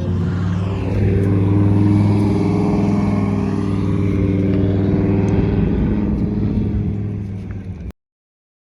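Car engine running loud and close with a deep, steady note that grows louder about a second in and holds, then cuts off abruptly near the end.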